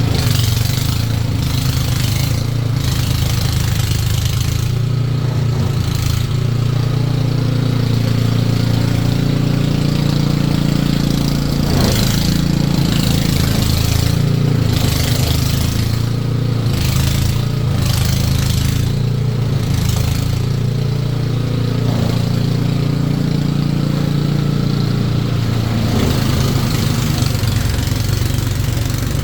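Car engine running steadily at idle, a low even hum, with short sharp noises now and then.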